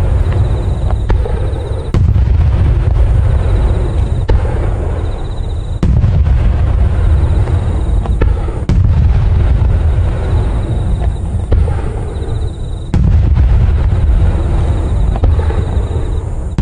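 Firecracker explosions: a string of loud booms with a heavy low rumble, each starting abruptly about every three to four seconds, with sharp cracks between them.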